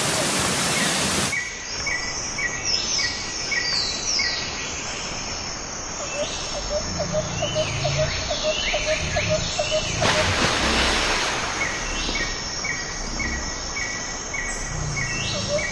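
Small birds calling and singing over a steady rushing background noise: a run of short repeated notes, about three a second, with quick falling chirps between them. A louder rush of noise covers everything near the start and again about ten seconds in.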